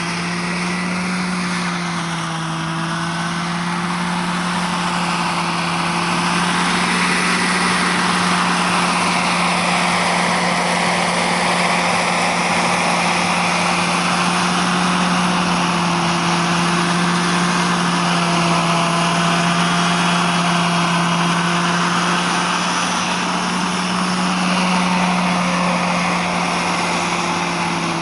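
Radio-controlled scale Huey model helicopter running, a steady motor drone under rotor noise that slowly swells and fades.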